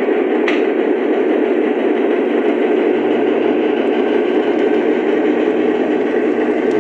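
Lionel BNSF coal train set running on its track: a steady, even rumble of the locomotive and rolling cars.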